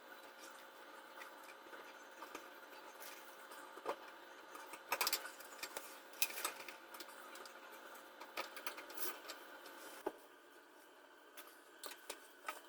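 Scattered light clicks and knocks of tools and parts being handled during a garbage disposal install, over a steady hum that cuts off about ten seconds in.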